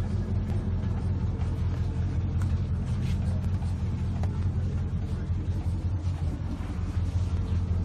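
A steady low mechanical rumble with a deep hum, unchanging throughout.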